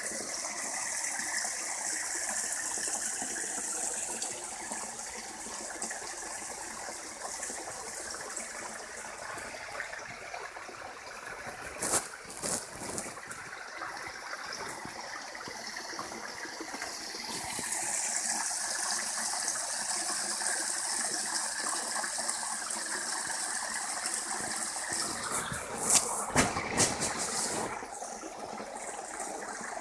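Small waterfall: water rushing and splashing steadily, a continuous hiss. A few sharp knocks break through it about twelve seconds in and again in a quick cluster near the end.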